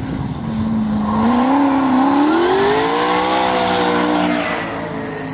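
Drift car's engine revving up: its pitch climbs steadily for about two seconds, holds high, then eases off slightly near the end.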